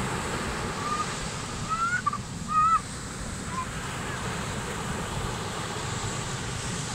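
Ocean surf and wind washing steadily, with a few short high-pitched cries about two to three seconds in, the loudest near the three-second mark.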